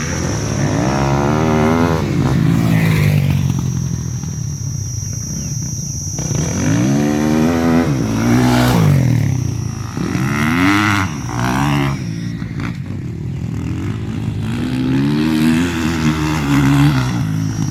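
Motocross dirt bike engines revving, the pitch climbing and falling in about four bursts over a steady engine drone as bikes ride the track.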